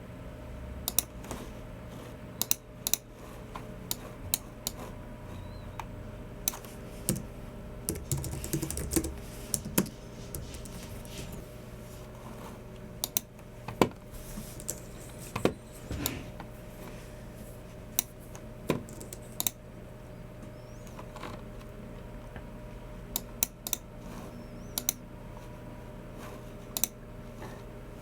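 Slow, irregular typing on a Logicool MX Keys Mini keyboard: scattered single keystrokes with gaps between them, and a short quicker run about eight seconds in, over a steady low hum.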